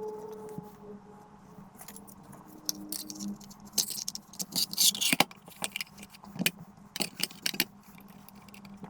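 Handling noise: irregular clicks and clinks of small hard objects, with a hissy rustle in the middle, over a steady low hum.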